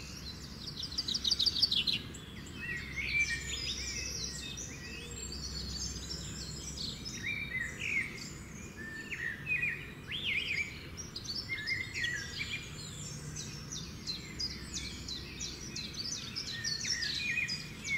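Several wild birds calling together: a dense run of short chirps and whistles, with a fast trill in the first two seconds.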